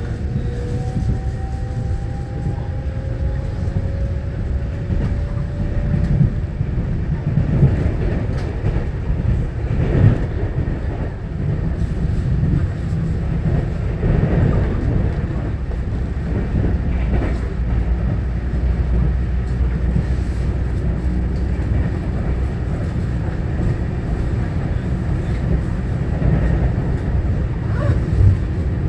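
Heard from aboard a Taiwan Railway EMU900-series electric multiple unit running on the line: the steady rumble of wheels on rail. In the first few seconds there is a rising whine from the traction motors, and a few knocks come from the track, the sharpest about ten seconds in and another near the end.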